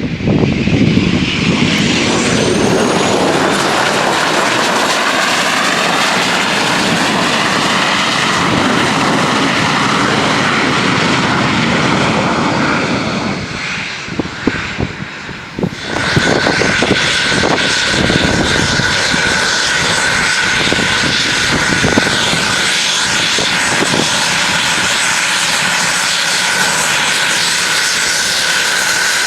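Cessna Citation Bravo's twin Pratt & Whitney PW530A turbofan engines on a landing pass: a jet whine whose pitch glides over the first few seconds, dips in level about halfway, then comes back as a steady high whine.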